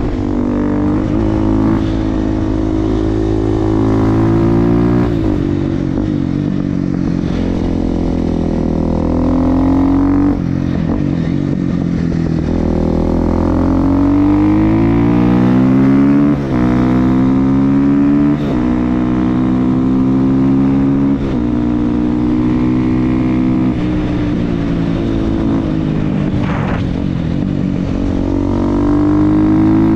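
Supermoto motorcycle engine through an FMF exhaust, under way and accelerating: the pitch climbs as it revs, then drops sharply at each gear change, several times over.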